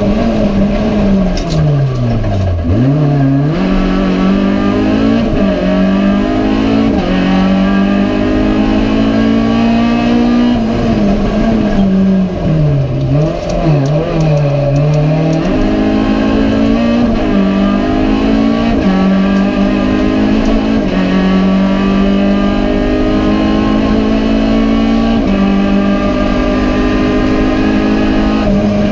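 Renault Clio RS Cup race car's engine heard from inside the stripped cockpit, driven hard with the revs climbing and stepping down through gear changes. Twice, about two seconds in and again from about twelve to fifteen seconds in, the pitch falls sharply with quick blips as the driver brakes and downshifts for corners.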